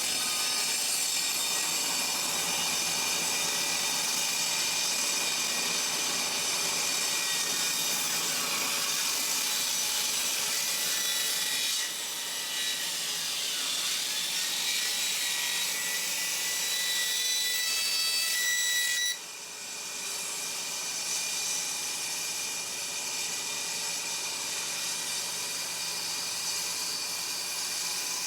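Table saw ripping a rough hardwood board against the fence, a steady loud cutting whine that starts abruptly, eases off about twelve seconds in and drops again around nineteen seconds in as the cut progresses.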